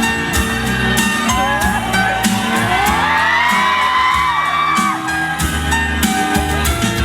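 Live pop band playing an instrumental passage between sung lines, with a crowd of fans whooping and screaming over it for a few seconds in the middle.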